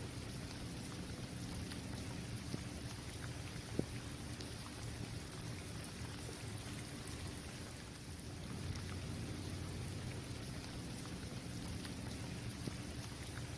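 Steady rain falling on a basketball court, with scattered ticks of single drops and one sharper tap about four seconds in. A low steady rumble runs underneath.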